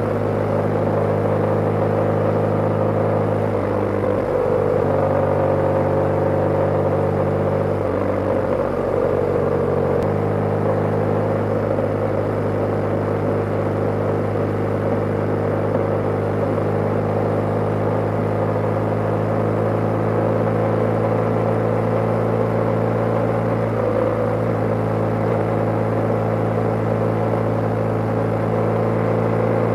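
BMW G/S motorcycle engine running at a steady cruising speed on the road. The engine note shifts and wavers between about four and ten seconds in, then holds steady.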